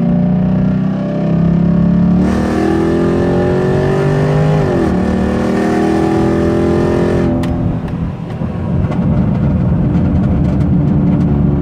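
Exhaust of a 2005 Lincoln LS with X-pipe and H-pipe and no mufflers, heard from inside the cabin while accelerating hard: the engine note climbs from about two seconds in, dips sharply once midway, then climbs again. About seven seconds in the throttle is let off and the exhaust turns rough and choppy as it slows, which the driver puts down to back pressure from having no tips.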